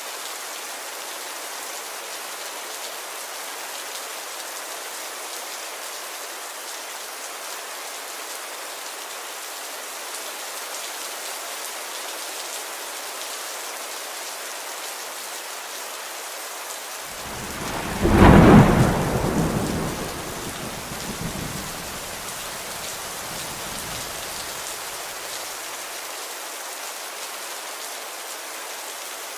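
Steady rain falling, with one clap of thunder a little past halfway that peaks sharply and rumbles away over several seconds.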